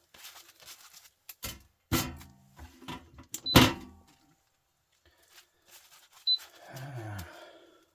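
Metal starter-motor parts being handled and knocked against a hard surface: a few separate sharp knocks, the loudest about three and a half seconds in.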